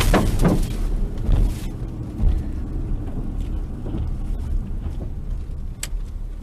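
A loud noisy crash-like burst dying away over the first second and a half, then the low steady rumble of a vehicle, with a thump about two seconds in and a sharp click near the end.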